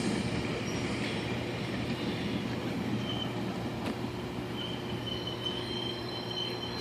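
Train running past, a steady rumble with faint high-pitched wheel squeal coming in about halfway through.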